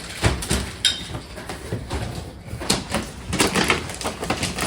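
Rustling and soft irregular knocks from a wrapped gift box being handled and moved about on the floor.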